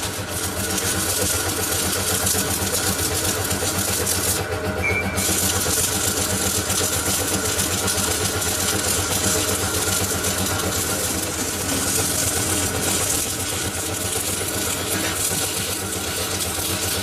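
Metal lathe running steadily: a continuous machine hum with a high hiss over it. The hiss stops for about a second, about four seconds in.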